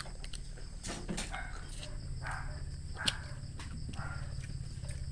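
A child biting and chewing raw cucumber slices: irregular chewing sounds about once a second, with a couple of sharp bite clicks about a second in and about three seconds in, over a steady low hum.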